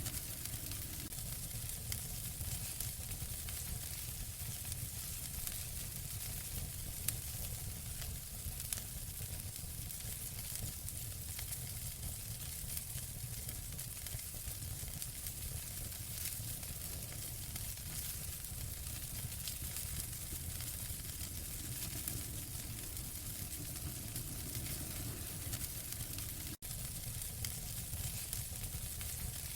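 Wood fire in a fireplace crackling: a steady hiss with scattered sharp pops, and a split-second dropout late on.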